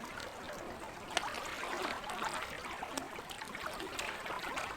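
Campfire crackling with sharp pops, the clearest about a second in and three seconds in, over the gentle trickling and lapping of lake water.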